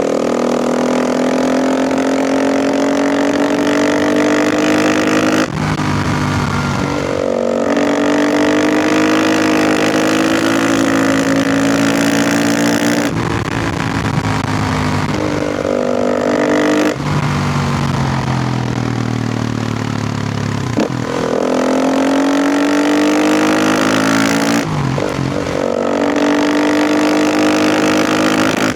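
KTM EXC 450 single-cylinder four-stroke engine under hard acceleration. Its pitch climbs for a few seconds, then drops back at each shift, about six times in a row as the bike is pushed on through the gears.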